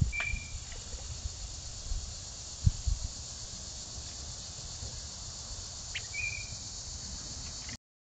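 Two short, high bird chirps about six seconds apart over a steady high insect hiss and a low rumble of wind on the microphone, with one loud low thump near the middle; the sound cuts off abruptly near the end.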